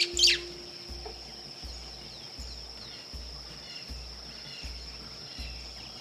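A harsh bird squawk sweeping downward right at the start. After it comes a steady high-pitched drone with faint, scattered chirps of small birds.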